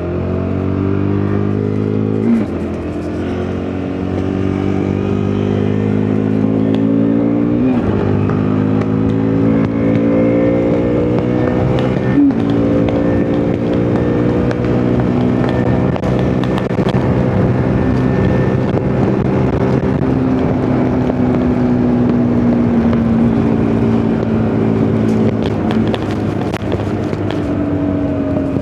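KTM RC390's single-cylinder engine pulling under load while riding, its revs climbing with quick gear changes about two, eight and twelve seconds in. The note then settles and slowly falls, and picks up again near the end.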